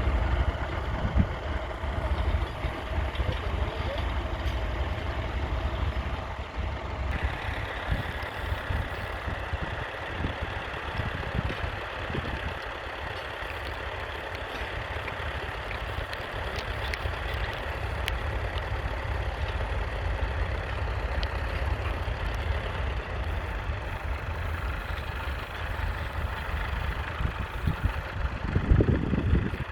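The three-cylinder diesel engine of a 1969 Massey Ferguson 135 tractor running steadily, with a brief louder low rumble near the end.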